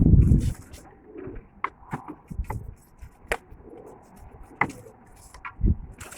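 Pigeons cooing in low, rumbling bursts, the loudest at the very start and another near the end, with scattered sharp clicks and taps in between.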